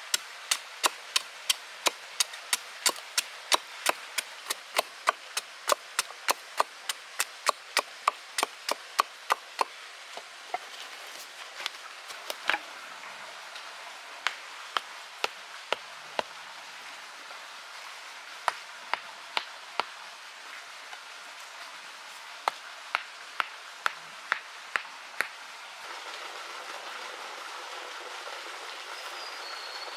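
Repeated sharp chopping strokes, about three a second for the first ten seconds, then in short runs of a few strokes with pauses between them.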